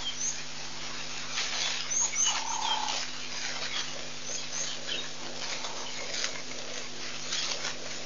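Small birds chirping in short, high calls scattered through, with one lower drawn-out note about two and a half seconds in. A few short bursts of rustling noise are mixed in.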